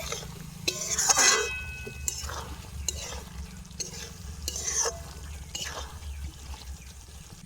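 A spatula scraping and stirring chicken liver and potatoes in spice paste around a frying pan, about one stroke a second, the loudest stroke about a second in with a brief metallic ring; the mixture is frying in oil as the spices are cooked down.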